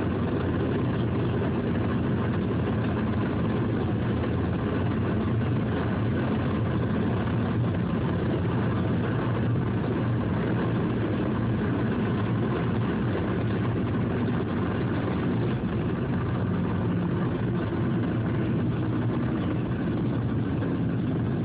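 Steady car engine hum and road rumble heard from inside the cabin, low and even throughout.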